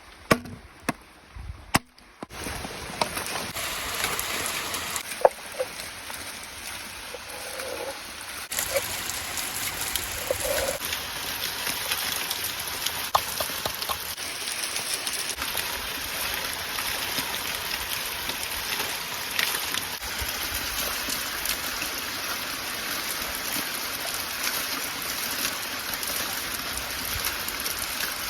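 A few knife chops on a board, then meat sizzling in a hot pan: a steady frying hiss that grows louder in steps, about two, eight and eleven seconds in, as more meat goes onto the heat.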